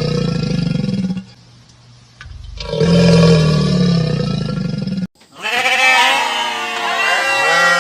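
A long, steady, low animal call heard twice, each lasting a couple of seconds, then several sheep bleating together with wavering, overlapping calls.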